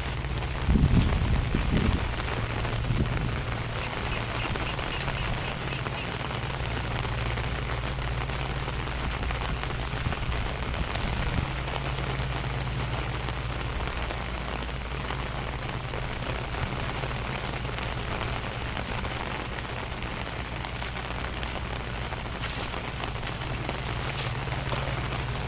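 Steady rain falling, an even hiss with a low rumble underneath. A few heavy low thumps come about a second in.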